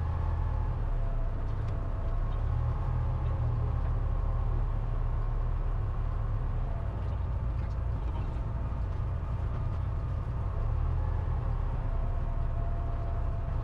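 Cessna 172's piston engine running steadily at low power while the plane taxis, a continuous low drone.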